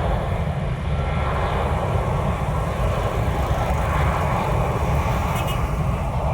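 Jet airliner's engines heard close by at a runway, a loud, steady rush of engine noise with a deep rumble underneath.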